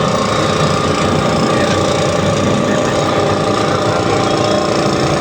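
2 hp air compressor running steadily under load, its pump motor rattling as it fills the tank toward its automatic cut-off pressure.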